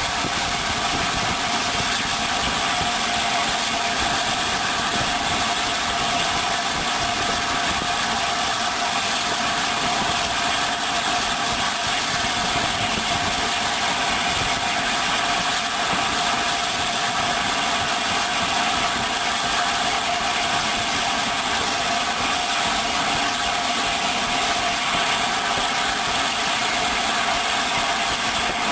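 Steady mechanical train noise: an even drone with several held tones and no distinct beat, unchanging in level throughout.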